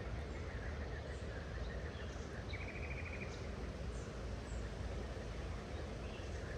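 Songbirds calling over a steady outdoor background hiss with a low rumble: scattered short high chirps, and a fast, even trill of about a dozen notes lasting under a second, about two and a half seconds in.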